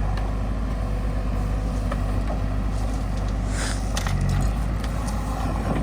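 Diesel tractor engine running steadily, with a short hiss about three and a half seconds in.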